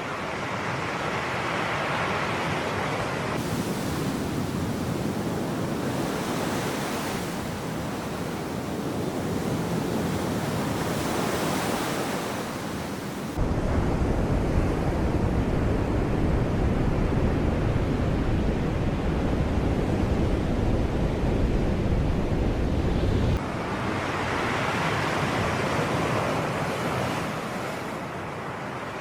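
Sea waves washing and surging, swelling and ebbing. For about ten seconds in the middle a heavier low rumble, typical of wind on the microphone, sets in and stops abruptly.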